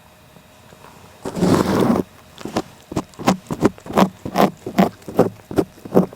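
Cat licking close to the microphone. There is a loud rasping rub about a second in, then a steady run of short licks, about two to three a second.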